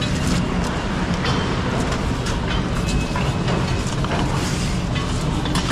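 A heavy diesel engine running steadily, with scattered light clinks and rattles over it.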